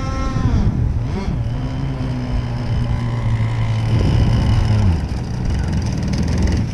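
Gas two-stroke engine of a radio-controlled race boat running at a high pitch, which falls away about half a second in, followed by a lower, steady engine tone that drops again near five seconds in.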